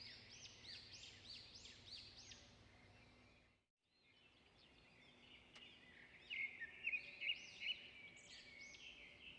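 Faint birdsong: many quick, high, arching chirps one after another. The sound drops out completely for under a second a little before halfway, then the chirping returns, louder for a while in the second half.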